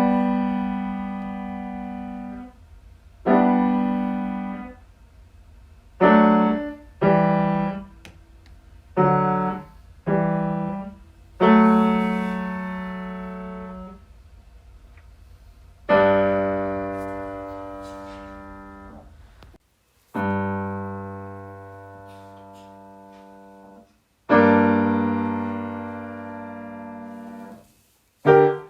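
Piano playing a passage of struck chords: several short chords, then from about the middle four long chords, each left to ring and fade away.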